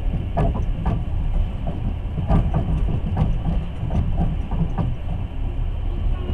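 Passenger train running, heard from aboard: a steady low rumble of wheels on the track with irregular clicks and knocks throughout.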